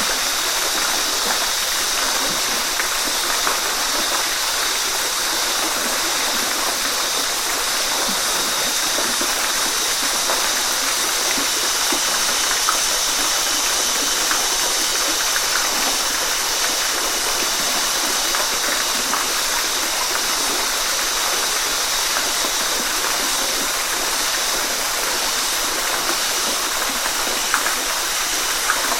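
Waterfall: a steady rush of falling water, mostly high hiss, with small splashes scattered through it.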